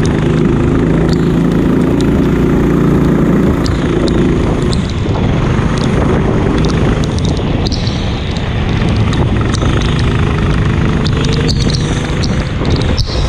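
Go-kart engines running loudly, with a steady engine note for about the first four seconds, then a rougher mix of engines and a rising pitch later on as a kart speeds up.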